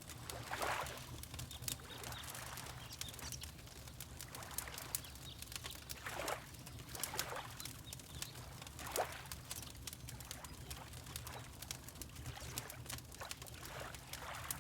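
Water lapping in soft swells every few seconds over a low steady rumble, with a fireplace crackling and popping throughout.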